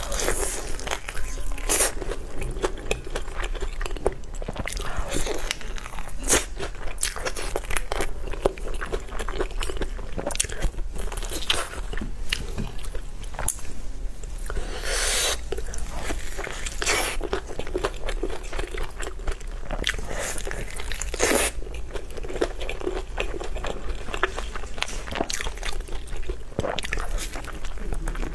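Close-miked biting and chewing of sauce-glazed fried chicken drumsticks, with irregular crisp crunches of the fried coating throughout, over a steady low hum.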